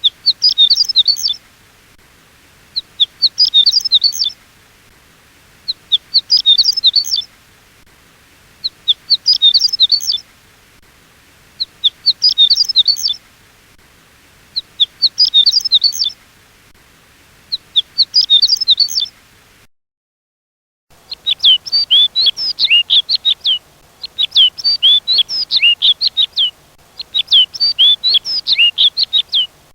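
Songbird recordings: short, high, rapid song phrases of about a second, repeated every three seconds; then, after a brief break of dead silence, a second recording of quick high chirps in denser runs.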